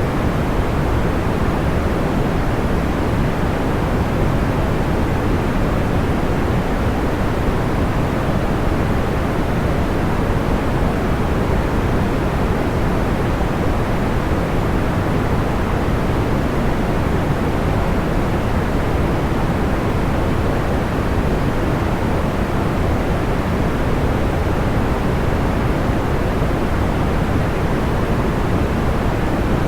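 Steady, unchanging noise of the kind used for sleep, deep and soft, with most of its weight low and little hiss up top. No crackles or pops stand out.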